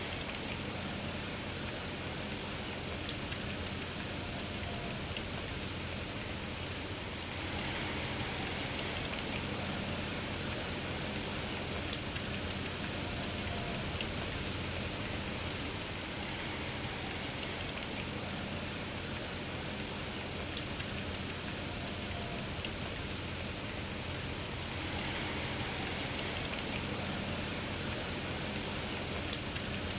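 Steady rain falling, an even hiss of drops on a surface. Four sharp, louder drop ticks stand out at evenly spaced points, about every eight to nine seconds.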